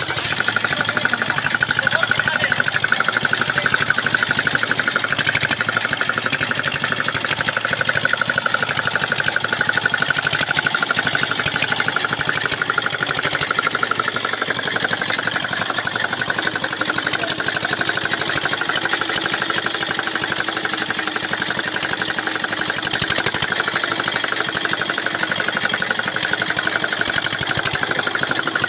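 Small 6 hp diesel engine running steadily with a fast, even firing beat.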